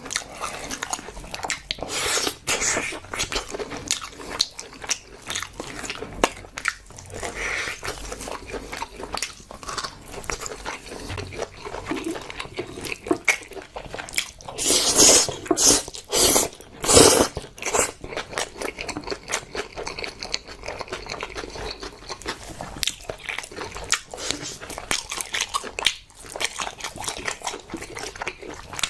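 Close-miked eating sounds: a person chewing and biting food in a steady run of wet smacks and clicks, with a few louder bursts about halfway through.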